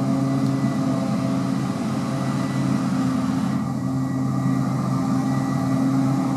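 Large farm tractor's diesel engine running steadily at constant speed under working load, with a faint high whine above the engine note.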